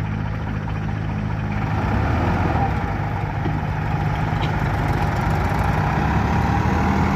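Sonalika DI 50 RX tractor's diesel engine running steadily under load, getting a little louder about two seconds in.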